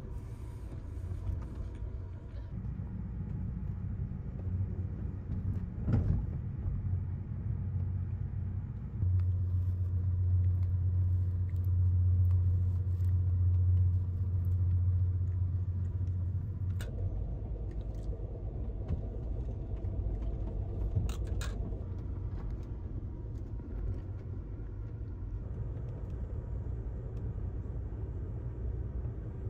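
Passenger train running, heard from inside an Amtrak Superliner roomette: a steady low rumble that shifts abruptly in level and tone about nine and seventeen seconds in. A few sharp clicks stand out, the plainest about six seconds in and two close together a little past twenty seconds.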